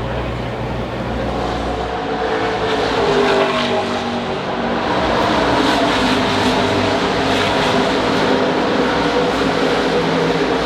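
IndyCar race cars' twin-turbo V6 engines running at speed, several at once, over a dense wash of noise, growing a little louder in the first few seconds.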